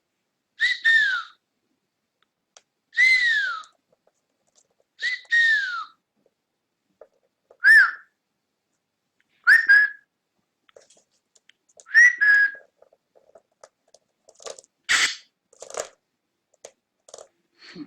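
Cockatiel whistling: a series of short calls, each one falling in pitch, about six in twelve seconds, some of them in two parts. A few clicks and knocks follow near the end.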